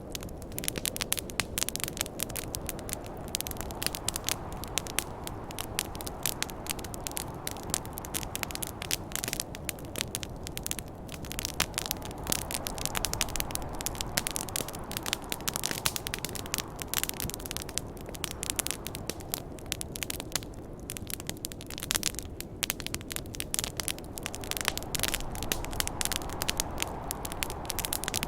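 Campfire crackling with dense, irregular pops and snaps, over a steady low rush of snowstorm wind.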